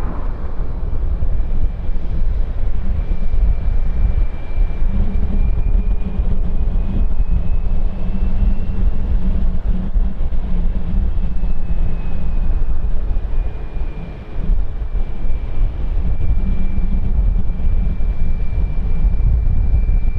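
Jet airliner engines running, a loud deep rumble with a thin high whine over it that rises a little and then falls back, dipping briefly about two thirds of the way in.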